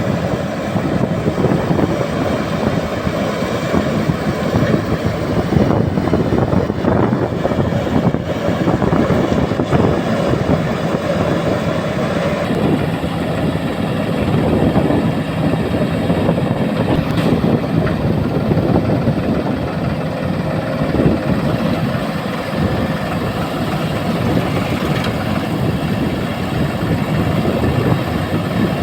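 Diesel engine of heavy loading machinery running steadily under work, with a dense, even mechanical din that never lets up.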